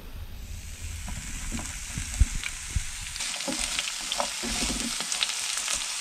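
Chopped spring onion and sliced red onion sizzling as they fry in a non-stick pan, with a spatula stirring and scraping in small clicks. The sizzle grows louder about three seconds in.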